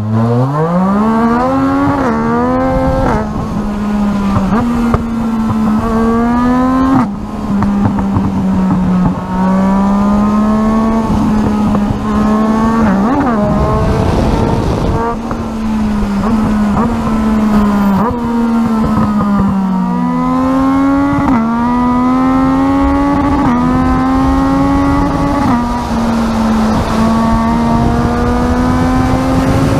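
Racing superbike engine at high revs, its pitch climbing and then dropping sharply several times as it changes gear, over a heavy rush of wind noise.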